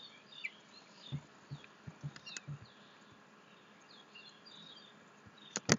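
Faint background with small bird-like chirps, a few soft low taps a second or two in, and two sharp clicks near the end.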